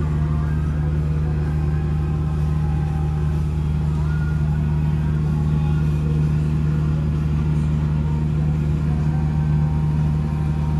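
2003 Peterbilt 379's diesel engine running steadily at an unchanging speed, a deep even drone.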